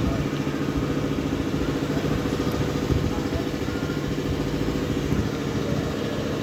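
Maruti Suzuki Swift petrol engine idling steadily.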